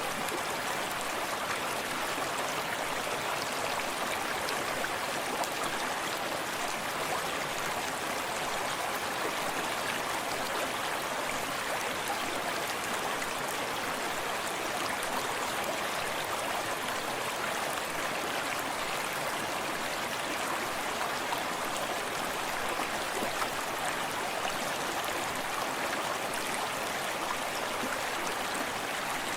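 Forest stream flowing steadily over stones, a continuous rushing with soft splashing and lapping of water.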